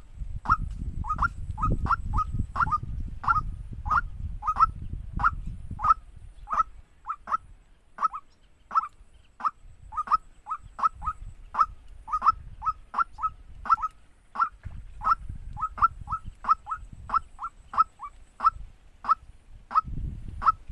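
Waterhen calling: short, sharp downward notes repeated about twice a second, some in quick pairs, over a low rumbling noise that comes and goes.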